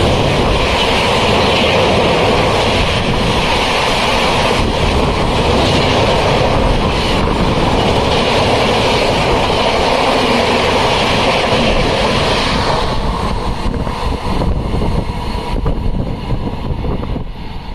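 Express passenger train passing at speed, about 131 km/h: a loud, steady rush of wheels on rail and air. About twelve seconds in the sound thins as the last coach goes by, then fades as the train draws away.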